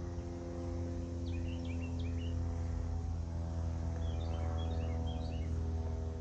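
Small birds chirping in two brief flurries of quick high chirps, over a steady low machine hum with several steady tones underneath.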